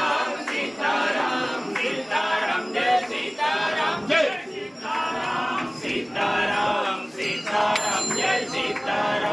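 A group of men chanting together in short, repeated phrases, each lasting about half a second to a second with brief gaps between them: Hindu devotees chanting in unison.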